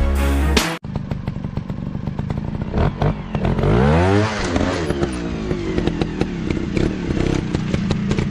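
Music cuts off under a second in, giving way to a dirt bike engine running with many short clatters. Around three to four seconds in its pitch rises and falls as the engine is revved and eased off.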